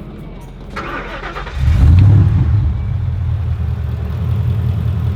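Ford Raptor truck's engine starting: it catches about one and a half seconds in, revs up briefly, then settles into a steady idle.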